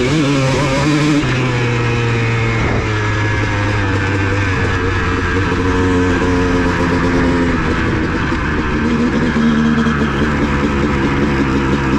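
Honda CR250 two-stroke dirt bike engine running under way. Its pitch drops in steps about a second in and again near three seconds, then holds fairly steady.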